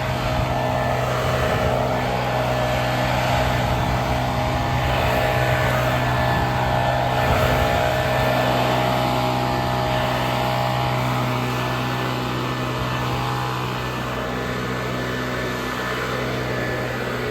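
Small petrol engine of lawn-care equipment running steadily at high speed, swelling slightly in level around the middle.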